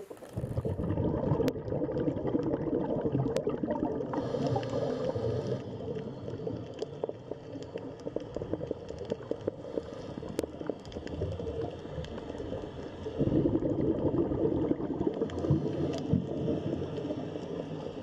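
Underwater ambience: a steady bubbling, gurgling wash with scattered sharp clicks, starting about half a second in and swelling louder again about three-quarters of the way through.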